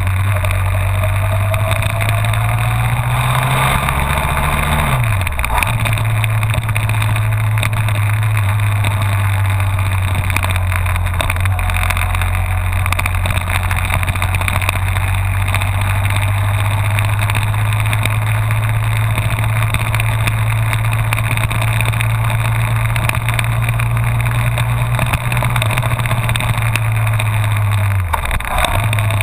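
Honda VFR1200F's V4 engine pulling steadily under way, with wind and road noise. The engine pitch climbs about four seconds in and then drops sharply, as in a gear change, and dips briefly and recovers again near the end.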